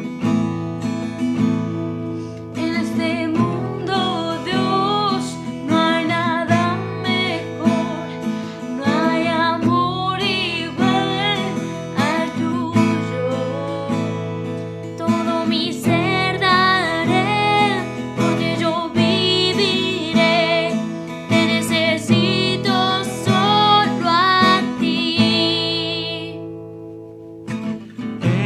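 Worship band music: acoustic guitar strumming chords under a melodic line with vibrato, without sung words. It thins out and drops in level for a moment near the end.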